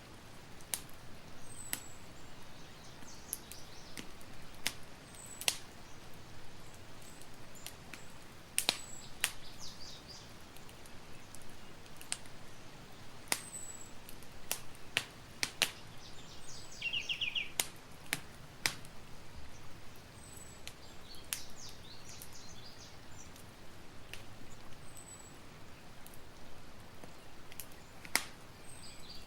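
Campfire burning, crackling with irregular sharp pops over a steady low hiss. Faint high bird chirps come in now and then, with a short trill about halfway through.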